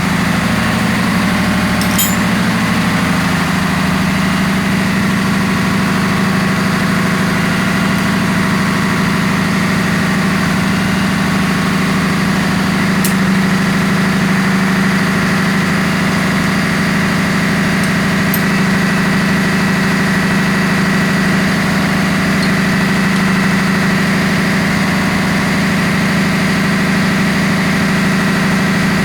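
Steady, loud drone of ship's engine-room machinery running, with a constant low hum and a thin high whine, and a few faint clicks.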